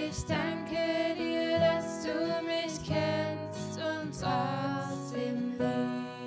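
Acoustic guitar music, part of a worship song.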